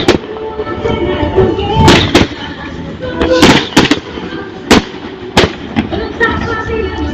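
Fireworks going off: a string of loud, sharp bangs at irregular intervals, several close together about three and a half to four seconds in.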